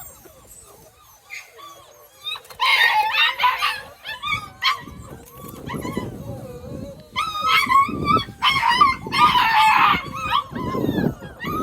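Puppies whining and yipping in several bursts of high, wavering cries, loudest about three seconds in and again through the second half.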